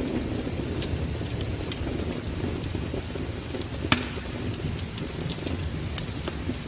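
Wood fire crackling in a fireplace, with scattered sharp pops, the loudest about four seconds in and again near six seconds, over a steady low rumble.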